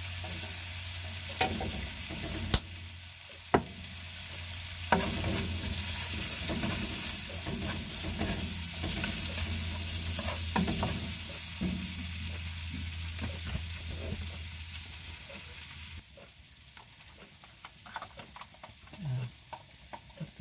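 Chopped onion, garlic and ginger sizzling in margarine in a nonstick wok, stirred with a plastic spatula, with a few sharp knocks in the first few seconds. The sizzling drops off abruptly about four-fifths of the way through.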